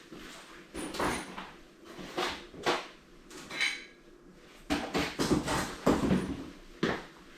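Hand tools being handled and rummaged through: a string of knocks and clatters, with a short metallic rattle about three and a half seconds in.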